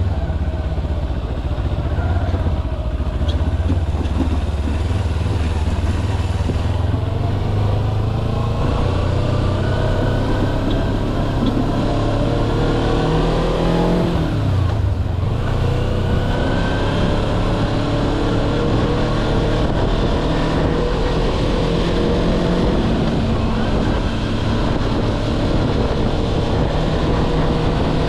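Kawasaki Versys-X 250's parallel-twin engine running under way, its pitch repeatedly climbing and falling as the bike speeds up and changes gear, with a sharp drop and rise about halfway through.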